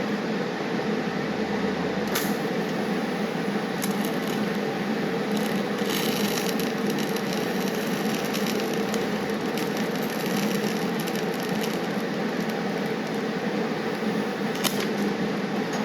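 Welding on a steel clamp: a steady, continuous noise with scattered crackles over a constant hum.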